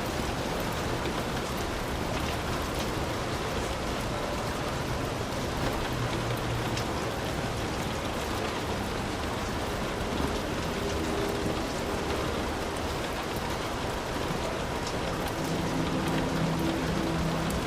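Heavy rain falling steadily on a hut, a dense even hiss with scattered individual drop hits.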